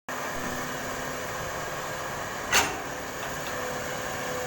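Caterpillar 320 excavator running steadily, with one short, sharp bang about two and a half seconds in.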